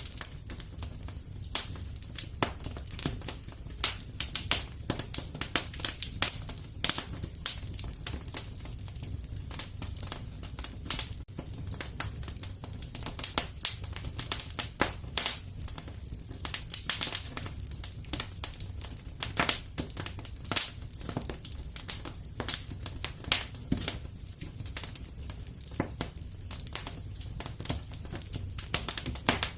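Wood fire crackling in a fireplace: irregular sharp snaps and a few louder pops over a steady low rumble of the burning logs.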